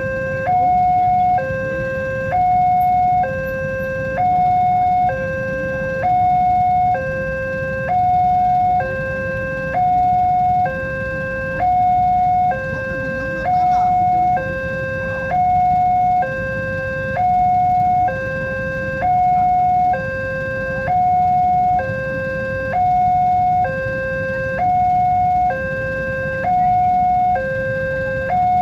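Railway level crossing warning alarm sounding a steady two-tone signal, alternating between a higher and a lower tone about once a second. This is the signal that a train is approaching and the barriers are down. A low steady rumble runs underneath.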